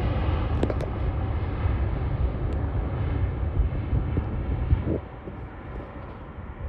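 Airbus A380's four jet engines rumbling after takeoff, the noise falling away markedly about five seconds in as the aircraft moves off.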